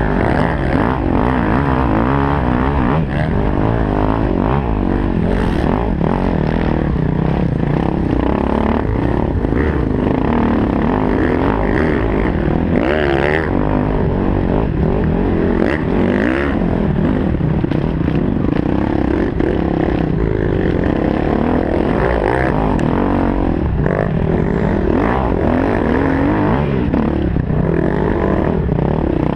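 KTM 250 SX-F motocross bike's single-cylinder four-stroke engine being ridden hard, its pitch repeatedly rising and falling as the throttle is opened and closed through the lap.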